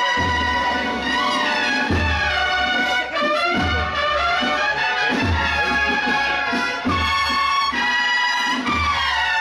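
A processional brass band playing a Holy Week march: held trumpet and trombone chords over a low bass drum beat about every one and a half to two seconds.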